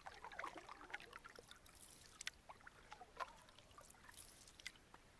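Faint water sounds of canoe paddling: paddles dipping and pulling through the lake with small drips and gurgles, and light clicks about once a second.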